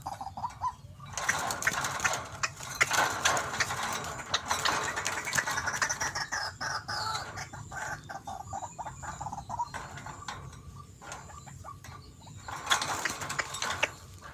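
White-breasted waterhen (ruak-ruak) calls: raucous, chicken-like clucking and croaking in two loud bouts, with quicker repeated notes in between.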